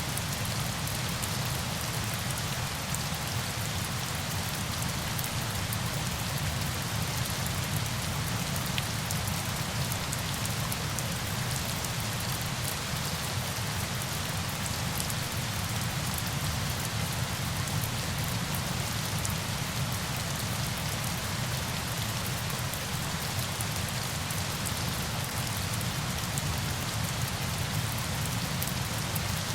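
Steady rain: an even hiss with a low rumble underneath and faint, scattered drop ticks, unchanging throughout.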